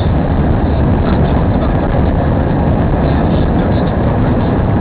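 Car driving on the highway, heard from inside the cabin: a steady, loud rumble of engine, tyres and wind.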